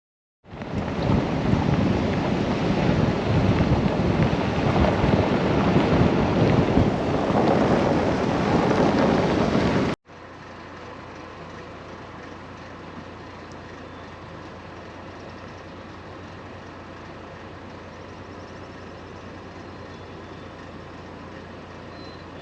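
Waterfall in full snowmelt flow, a loud, steady rushing roar. About ten seconds in it cuts off suddenly to a much quieter steady hiss with a low hum underneath.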